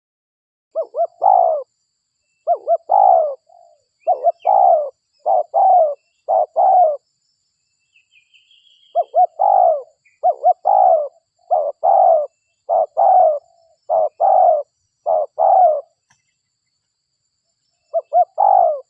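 Spotted dove (derkuku) cooing over and over in short phrases of quick notes ending in a longer coo, with a pause of a couple of seconds in the middle; this is a lure call used to bring wild spotted doves in. A faint chirp of a small bird sounds during the pause.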